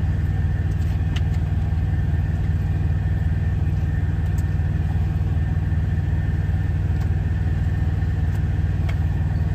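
Steady low rumble of a semi-truck's engine idling, heard from inside the cab, with a few faint clicks.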